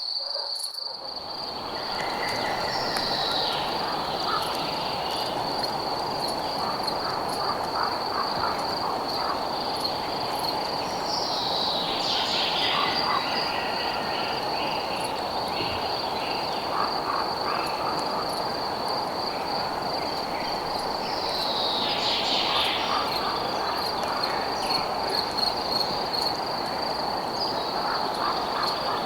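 Crickets trilling steadily at a high pitch over a steady rushing noise. About every nine seconds, three times, another call falls in pitch.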